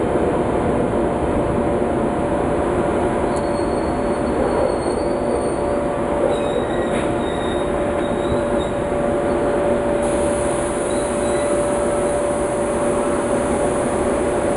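Intercity Notte passenger coaches rolling slowly along the platform as the train departs: a steady rumble with a continuous wheel squeal. Fainter, higher squeals come and go from about three seconds in.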